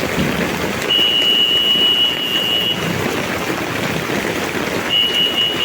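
Sand pouring off a dump truck's tipping bed, a steady rushing hiss. A high steady electronic tone sounds twice over it, for about two seconds and then briefly near the end.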